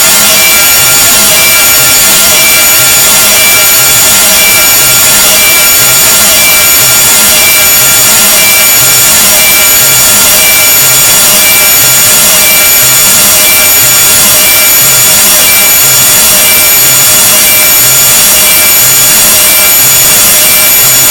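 Deliberately unpleasant noise sound effect: a harsh, very loud, unbroken rasping hiss with several steady high whines over it and a low pulsing underneath.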